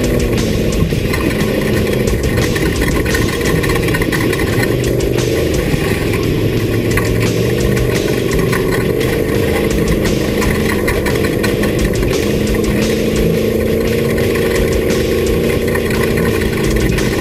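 Off-road race vehicle's engine running at a steady pitch, loud and continuous, with a short dip about a second in.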